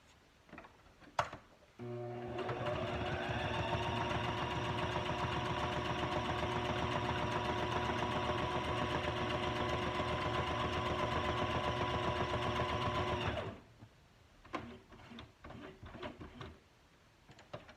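Electric sewing machine running a straight stitch. The motor starts about two seconds in and speeds up with a rising whine. It runs steadily for about eleven seconds and then stops, followed by a few small clicks.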